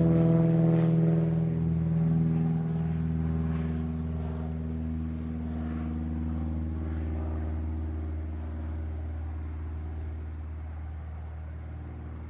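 Cessna 185 Skywagon's engine and propeller droning steadily, fading gradually as the plane flies away after its pass.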